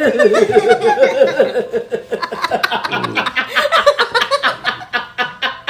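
Loud, hearty laughter: a long unbroken run of quick, rhythmic laughs.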